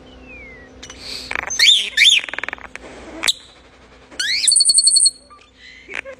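Starling singing a varied, fast-changing song: falling whistles, chirps sliding up and down, clicks and rattles, and about a second of rapid high trilling midway, the kind of medley in which it imitates other birds' calls.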